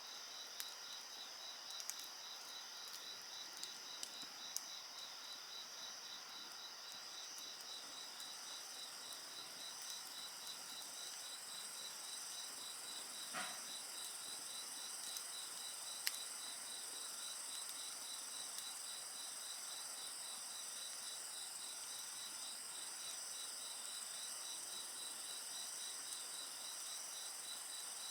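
Insects chirping steadily in several overlapping high pitches, one a fast pulsing trill, with another higher chorus joining about a third of the way through. A wood fire crackles now and then with sharp pops, one louder snap near the middle.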